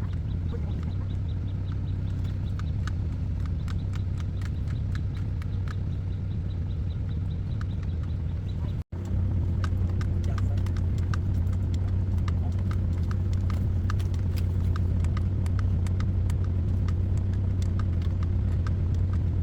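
Excavator diesel engine running steadily at a low idle, with a fast, irregular clicking over it. It breaks off for an instant about nine seconds in and comes back a little louder.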